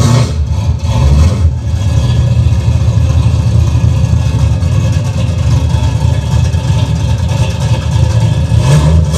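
Very loud Mazda RX-7 with a swapped-in 350 V8 running, with two brief throttle changes in the first seconds and a rev rising near the end.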